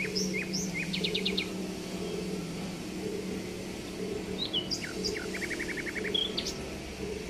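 Small birds chirping, short high calls with two fast trills of about eight notes each, a second in and again near five seconds in, over a steady low hum.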